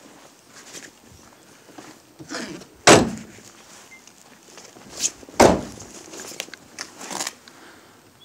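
A series of knocks and thumps, irregularly spaced, the two loudest about three and five and a half seconds in.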